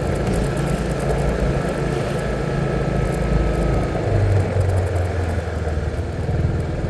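Vehicle engine running at low speed on a short test ride after an oil change. Its note shifts lower about four seconds in.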